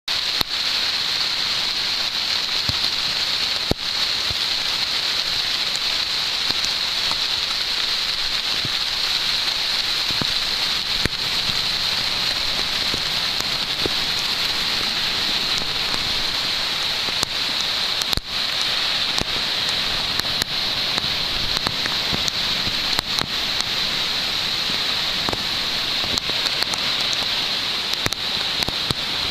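Heavy rain falling steadily: a dense, even hiss with scattered sharp ticks.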